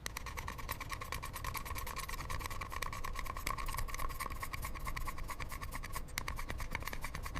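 A fast, dense run of small scratching clicks over a steady hiss.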